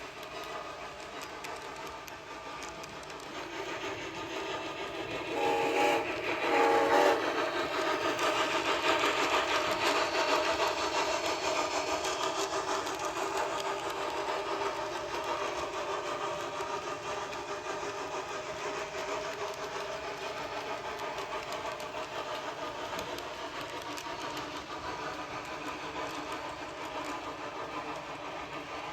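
Sound-equipped HO-scale model locomotive running steadily, with two short whistle blasts about six seconds in. The running sound swells after the blasts, then slowly eases off.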